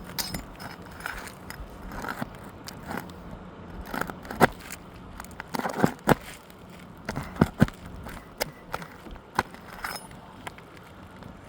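Flat pry bar scraping and prying under brittle old three-tab asphalt shingles, with irregular sharp knocks and crackles as the shingle is worked loose.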